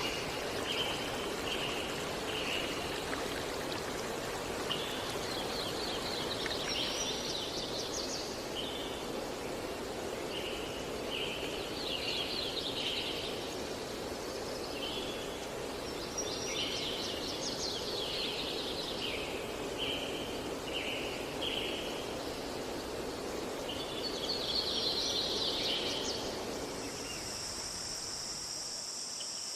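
Steady rush of flowing water with a songbird repeating the same song phrase every five or six seconds: a few short notes followed by a quick, sweeping trill. Near the end the water fades and a steady high insect chirring takes over.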